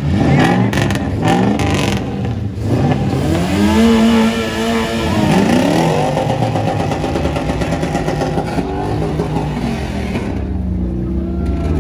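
Car engine being revved, its pitch climbing and falling back a couple of times, then running on at a steadier speed.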